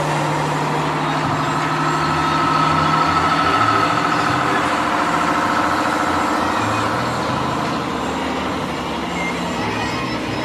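Heavy trucks driving past with their engines running.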